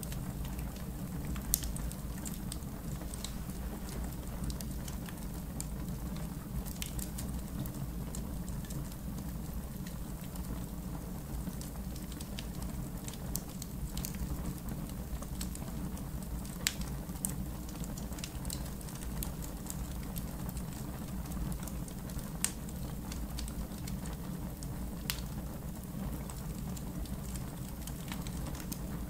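Wood campfire in a fire pit crackling: sharp, irregular pops every few seconds over a steady low rumble of the burning fire.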